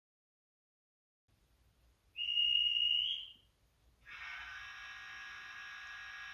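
A train whistle from a model locomotive sounds once for about a second over a faint low rumble. From about four seconds in, a steady, high, multi-tone ringing sets in.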